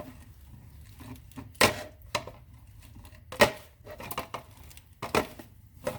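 Hand grease gun being pumped into the grease fitting of a new sway bar link: about half a dozen sharp, irregularly spaced clacks.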